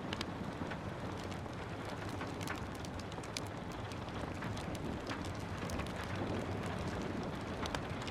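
Steady rain hiss with a wood fire crackling over it: frequent, irregular sharp pops and snaps.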